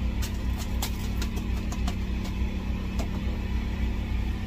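A steady low motor hum runs throughout, with scattered light clicks and taps over it.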